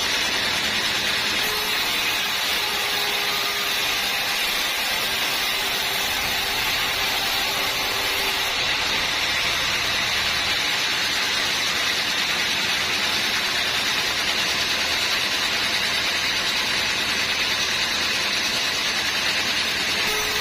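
Sawmill machinery running steadily while sawing teak, an even, continuous noise that neither rises nor falls.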